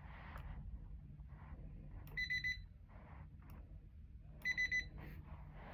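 Electronic beeper sounding two short bursts of three quick high beeps, about two and a half seconds apart, over a low steady hum.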